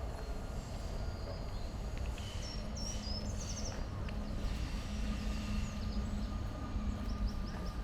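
Outdoor park ambience: a steady low rumble with a faint hum, and small birds chirping, a quick run of chirps about three seconds in and a few more near the end.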